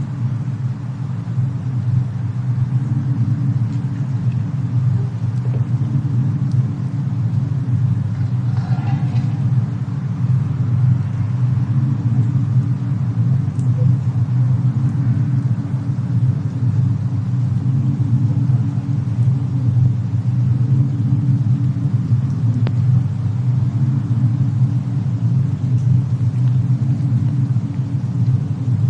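Steady low rumble of a snowstorm-and-fireplace ambience mix, with a few faint crackles.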